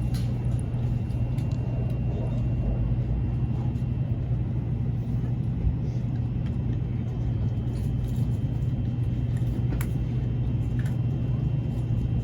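Steady low hum and rumble of a train, with no change in pitch or level.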